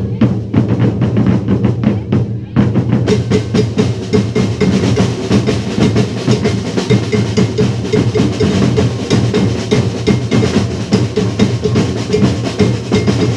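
Drums playing a fast, steady rhythm, with deep bass drum and snare strokes, growing fuller about two and a half seconds in.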